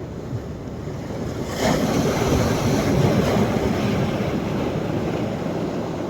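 Sea waves breaking on a sandy beach on a rising tide: a wave crashes about one and a half seconds in, and its wash then slowly fades.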